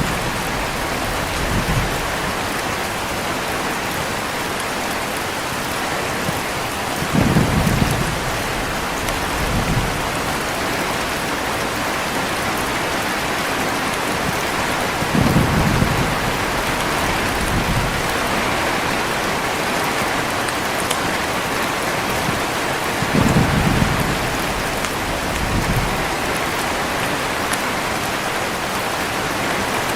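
Heavy rain falling in a steady hiss, with short low thunder rumbles about every eight seconds, each followed by a fainter one a couple of seconds later.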